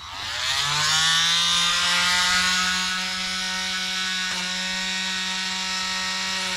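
Oscillating multi-tool switched on, its buzz rising quickly in pitch as it spins up and then running steady while the blade plunge-cuts into dry wood; a little quieter from about three seconds in.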